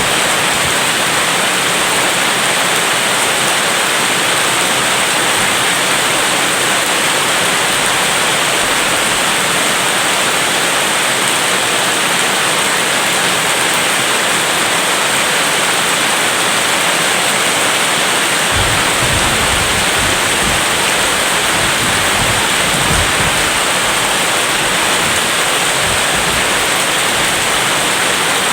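Heavy rain falling steadily, a dense even hiss. About two-thirds of the way through, a low rumble of distant thunder rises under the rain for several seconds.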